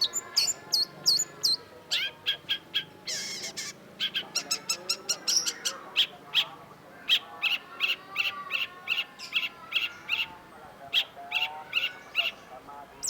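Long-tailed shrike singing: a fast run of short, sharp chipping notes, with a harsh rasping burst about three seconds in.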